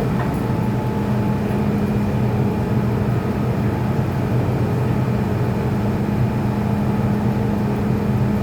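MTR M-Train electric multiple unit running at a steady speed, heard from inside the car: an even rumble of wheels on rail with a constant hum from the traction equipment.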